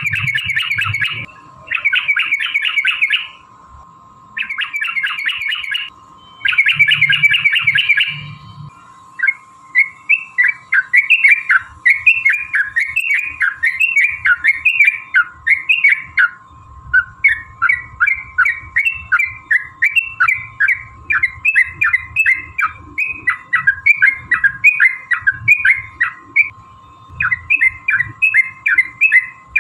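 Yellow-vented bulbuls calling: four harsh chattering bursts of a second or so in the first nine seconds, then a long run of quick, bubbly repeated phrases, about two a second.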